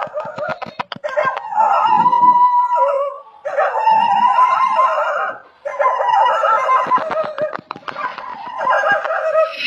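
Animals crying out in high-pitched, wavering calls, nearly without a break, with scattered sharp clicks; the calls drop out briefly twice.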